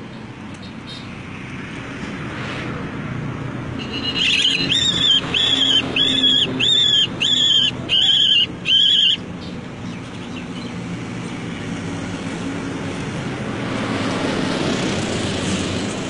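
A bird calling loudly: about eight shrill cries in quick succession, each rising then falling in pitch, over a steady low hum.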